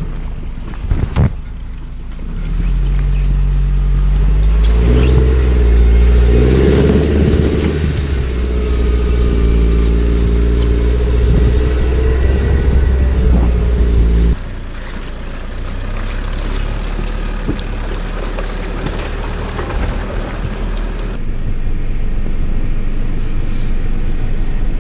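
An off-road vehicle's engine runs and revs under load, its pitch rising and falling. The sound drops abruptly about halfway through and changes again near the end.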